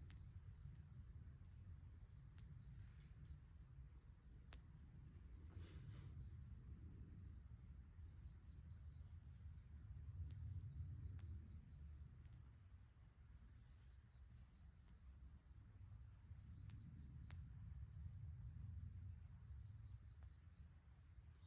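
Faint insects chirping in a steady, repeating pulsed trill, over a low rumble, with a few faint clicks.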